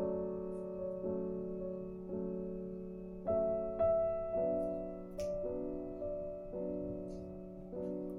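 Background music: gentle piano chords, a new chord struck about once a second and left to fade.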